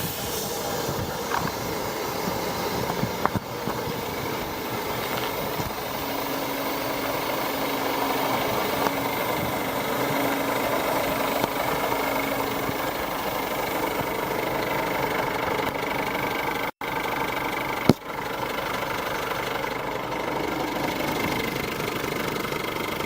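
Scania 124-400 truck's inline-six diesel engine idling steadily. The sound drops out for an instant about three-quarters through, followed by a sharp click.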